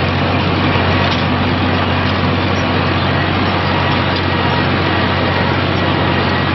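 Heavy machine's engine running steadily at constant speed, with a deep even drone and no change in pitch.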